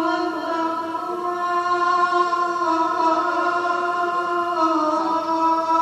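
A boy's voice reciting the Quran in melodic tajweed style, holding long drawn-out notes that step to a new pitch a few times.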